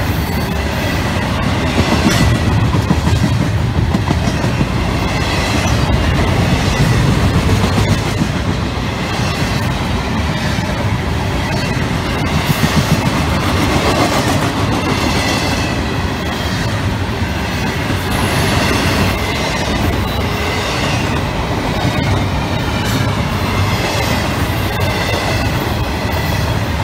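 Double-stack intermodal freight train's well cars rolling past, a steady rumble of steel wheels on the rails with faint high wheel tones above it.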